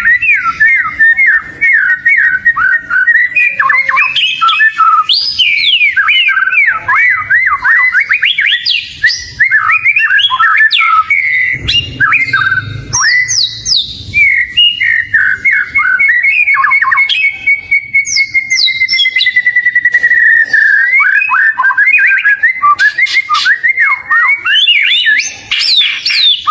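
Oriental magpie-robin (kacer) singing continuously in full song: a fast, varied string of sweet whistled notes and chatter, with one long, even trill about two-thirds of the way through.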